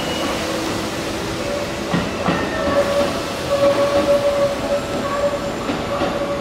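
Electric commuter train moving through the station, with a steady whine running through it and a few sharp clicks from the wheels passing over rail joints.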